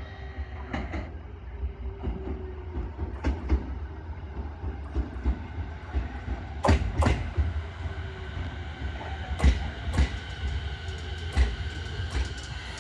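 Electric commuter train rolling into the station: a steady low rumble with a faint high whine, and sharp clacks of the wheels over rail joints, several coming in pairs.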